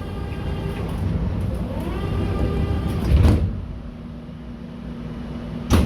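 81-717.6 metro train pulling away: the traction motors whine, rising in pitch twice, over a steady running rumble. About three and a half seconds in the whine drops away and the rumble goes on more quietly. A sharp knock comes near the end.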